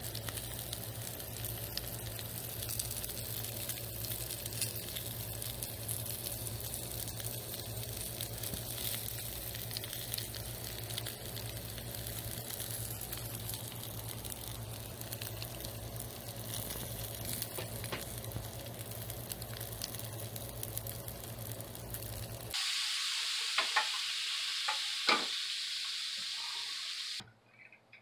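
Halved Brussels sprouts sizzling on a hot flat-top griddle: a steady crackling sizzle full of tiny pops, over a low hum. Near the end the sizzle turns to a brighter, higher hiss with a few sharp pops.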